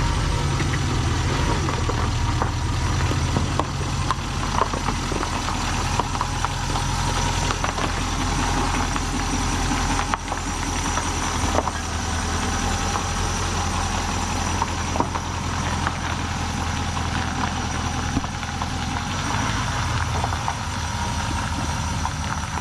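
Truck engine running steadily, with scattered knocks and rattles over the low drone.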